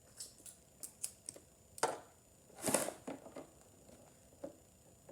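Plastic toy packaging being handled and tugged at: scattered light clicks and short crinkling rustles, the loudest rustle about two and a half seconds in.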